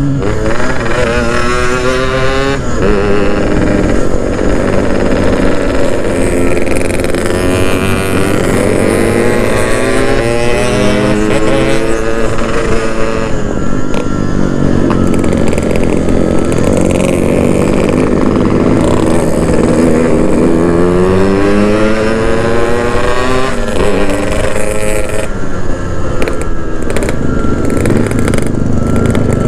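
Yamaha RX-King's single-cylinder two-stroke engine under way, its pitch climbing in several rising sweeps as it pulls through the gears, then settling to a steadier run near the end. The engine is low on compression, by the owner's account.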